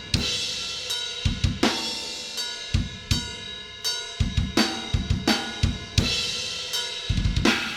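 Recorded metal drum kit played back through a VCA compressor plugin with its punch option on: quick clusters of bass drum hits, snare strokes and ringing cymbal crashes.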